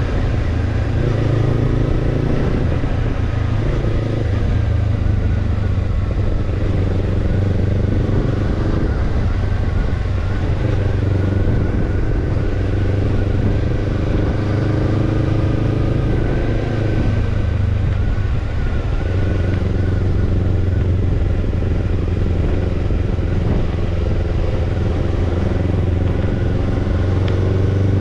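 Kawasaki Ninja 250 parallel-twin exhaust through a BEET NASSERT Evolution Type II titanium slip-on muffler, running continuously with the engine speed rising and falling as the bike is ridden; the pitch dips about two-thirds of the way through, then climbs again.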